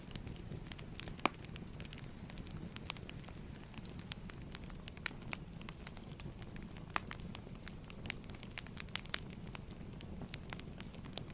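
Wood fire crackling in a fireplace: irregular sharp pops and snaps over a low, steady rumble, with a louder pop about a second in.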